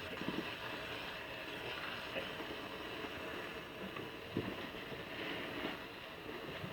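Soapy car-wash sponge being squeezed and worked into a lather: a steady wet squishing, with a couple of louder squelches, one just after the start and one past the middle.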